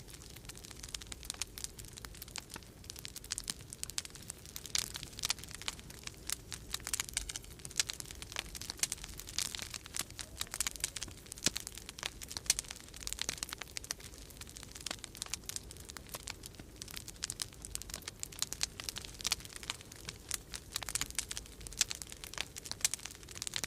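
Wood fire crackling in a fireplace, with dense irregular pops and snaps, over a steady low rumble of winter storm wind.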